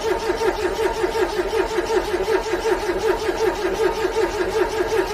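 Car engine cranking on its starter in freezing cold without catching: a steady rhythmic rise and fall, about four to five pulses a second.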